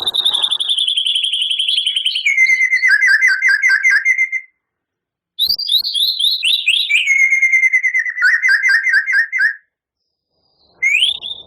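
White-rumped shama singing: two long, rapid trilled phrases, each stepping down from a high pitch to a lower one, with a short pause between them, then a brief rising whistle near the end.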